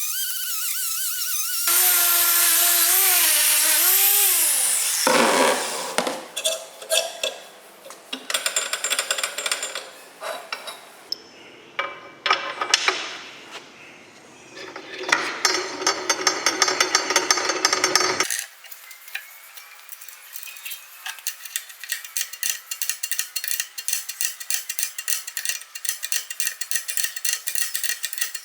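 Workshop tool noise: a power tool runs and winds down with falling pitch, then irregular metal scraping and knocking, then a long run of rapid fine ticking.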